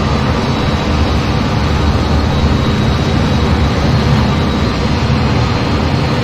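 Steady aircraft noise in flight: engine and airflow at an even level with no changes, plus a faint steady high whine.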